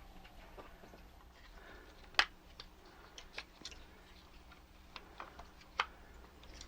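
Scattered clicks and taps of small plastic parts being handled while the Omnibot 2000 robot's arm gearbox is taken apart. Two sharper clicks stand out, about two seconds in and near the end.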